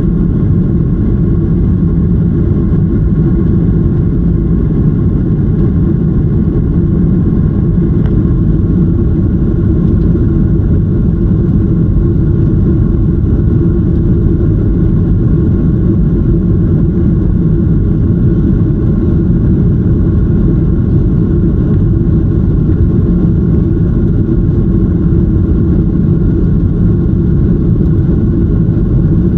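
Jet airliner cabin noise: a loud, steady low rumble of the engines and rushing air, heard from a passenger seat inside the cabin.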